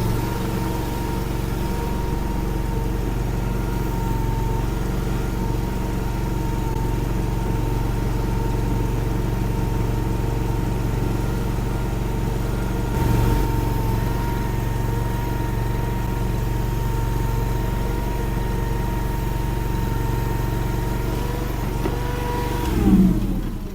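Derette DRT450 mini skid steer engine running steadily at working speed, with a steady high whine above the engine note. Near the end the pitch falls as the engine slows down.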